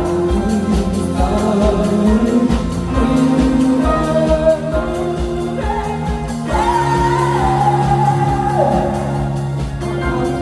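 Pop-disco band cover song: singing over held keyboard or guitar chords and a steady drum beat.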